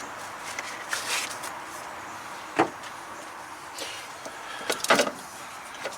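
Steady hiss with a sharp knock about two and a half seconds in and a quick cluster of knocks near five seconds in.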